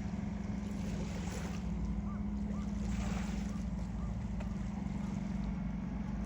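Boat engine running with a steady low drone, over a haze of wind and water noise.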